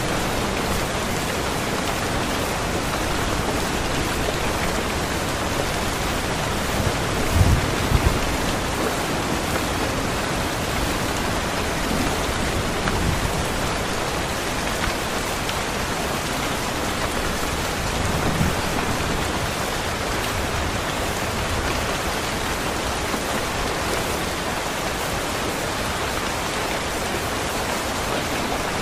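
Steady rain pouring, with low rumbles of thunder three times, the loudest about seven seconds in.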